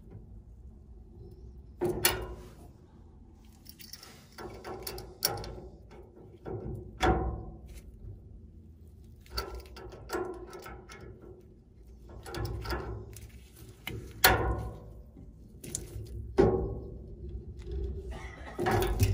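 Irregular metal clanks and knocks from hand tools and parts against an old gas furnace's sheet-metal casing during repair work. Some knocks ring briefly, with the loudest about two, seven, fourteen and sixteen seconds in.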